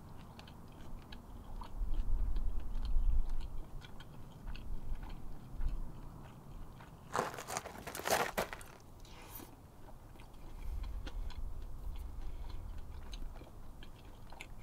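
Close-up sound of a person biting into and chewing an open-face sandwich of bread topped with trout and raw onion. There are low rumbles and a louder stretch of crunching about seven to eight seconds in.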